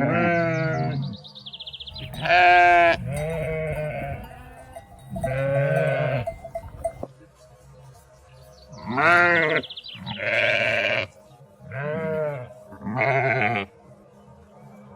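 Sheep bleating repeatedly: about eight wavering baa calls, separate and each lasting about a second.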